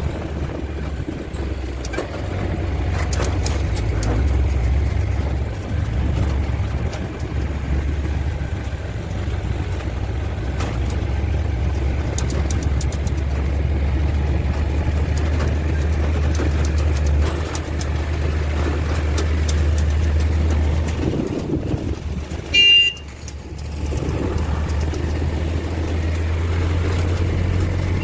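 Motor vehicle running with a steady low rumble, and a short horn toot about three-quarters of the way through.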